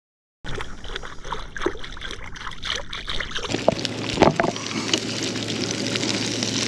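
Buttermilk-and-flour-coated pieces frying in hot oil in a pan over a campfire: crackling and sizzling that swells about three and a half seconds in, with a few sharp pops.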